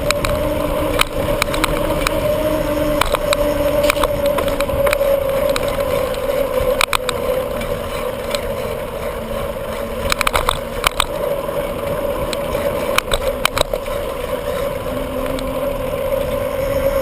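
Bicycle in motion heard from the rider's camera: steady wind rumble on the microphone and tyre hum on the road, with scattered clicks and rattles from bumps.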